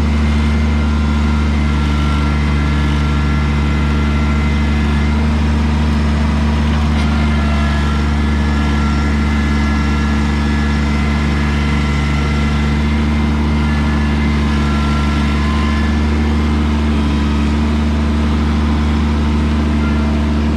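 Kubota BX2200 compact tractor's three-cylinder diesel engine running steadily at constant speed while driving a PTO rear tiller through garden soil.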